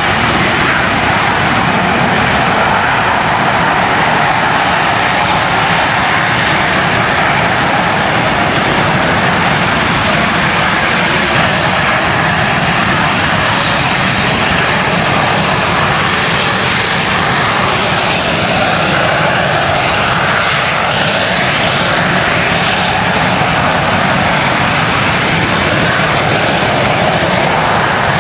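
A fixed-wing aircraft's engine running loud and steady as it flies at an air show, with faint shifts in pitch through the middle.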